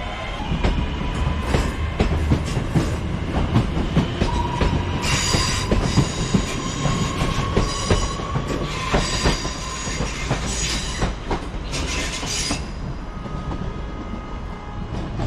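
A train moving slowly along the platform, its wheels clicking over rail joints, with bursts of high-pitched wheel squeal about a third of the way in, past the middle, and again near the end.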